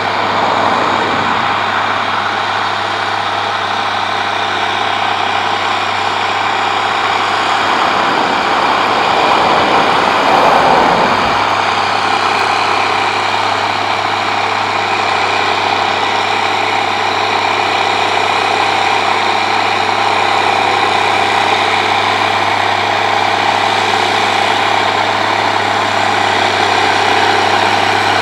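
Case Magnum 7210 tractor's diesel engine running steadily, with a brief swell in sound about ten seconds in.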